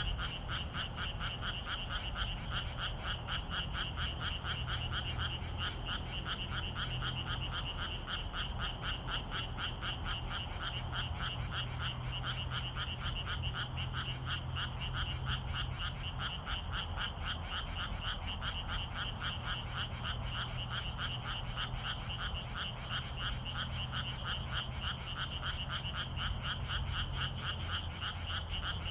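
A dense chorus of frogs calling: many overlapping croaks merging into a steady, rapid pulsing that never lets up.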